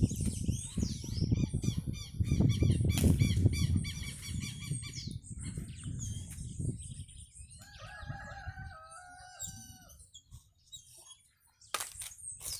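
Birds calling outdoors: repeated short high chirps over a low rumble for the first few seconds, then one long, level call of about a second some eight seconds in, followed by scattered quieter calls.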